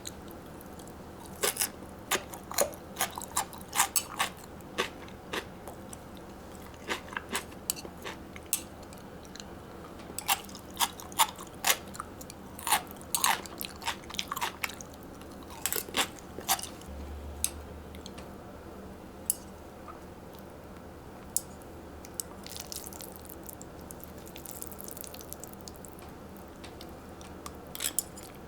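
A person biting and chewing crunchy food, making a run of sharp, irregular crunches. The crunches come thick and fast through the first half and thin out to occasional ones later.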